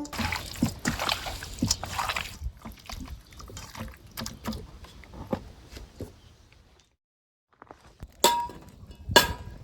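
Food preparation sounds: liquid sloshing and being poured over food, with small irregular clicks and handling noises, then two sharp ringing clinks of a container or utensil near the end.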